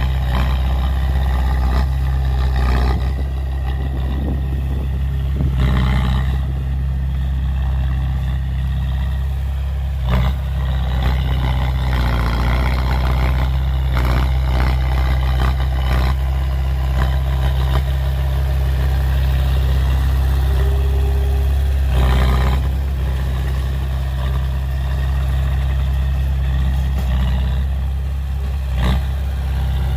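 Heavy diesel earthmoving machinery, dump trucks and a bulldozer, running steadily with a deep engine drone, broken by a handful of sharp metal clanks.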